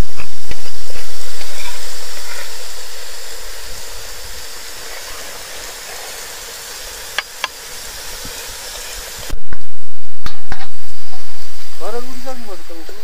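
Loud sizzle of food or liquid hitting hot oil in a cooking pan, a hiss that starts suddenly and fades away over a few seconds; it happens twice, the second time about nine seconds in.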